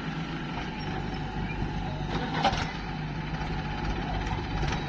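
Heavy diesel engine running steadily, with one sharp knock about two and a half seconds in.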